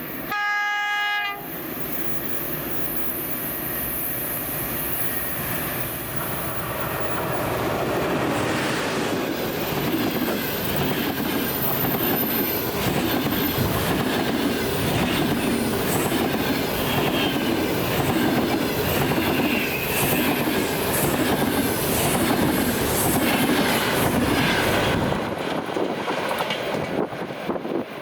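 EP20 dual-system electric locomotive sounding a short horn blast of about a second, then its express passenger train approaching and passing at speed. The coaches' wheels clatter rhythmically over the rail joints, and the noise falls away near the end.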